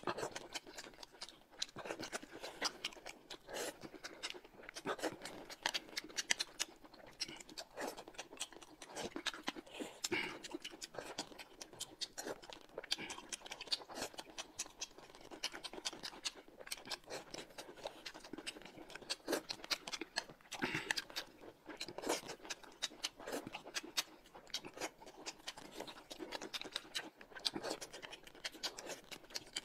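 Close-miked eating sounds: chewing and mouth noises, heard as a dense, irregular run of small clicks and smacks.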